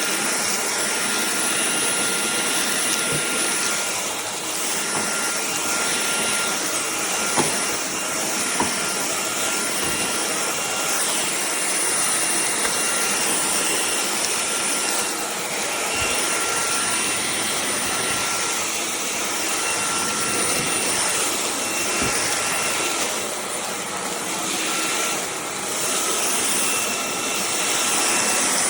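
Cordless stick vacuum running steadily: a rushing airflow with a thin motor whine, dipping slightly now and then as it is moved, with a couple of light knocks around seven to nine seconds in.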